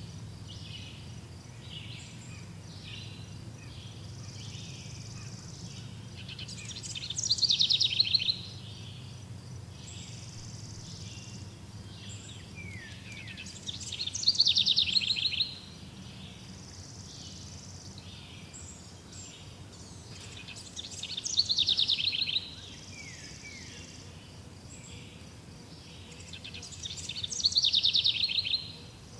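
Outdoor nature ambience: a bird sings a short, high, rapidly descending trill four times, about every seven seconds, over faint steady chirping and a low background hum.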